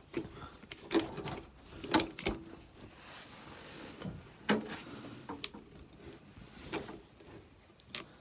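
Scattered light clicks and knocks of hand tools on metal, a wrench working a nut off a bolt on the body of a Land Rover Series IIA, at irregular intervals with no steady rhythm.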